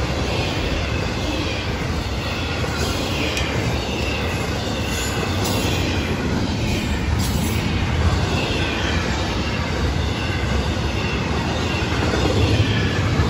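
Florida East Coast Railway intermodal freight cars rolling past: a steady rumble of steel wheels on rail, with a wavering high wheel squeal over it.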